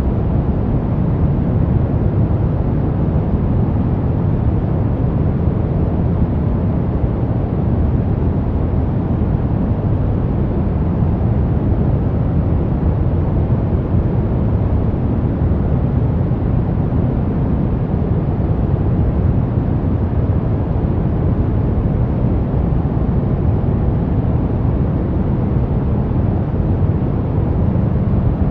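Steady brown noise: an even, deep hiss weighted to the low end, without tones or breaks.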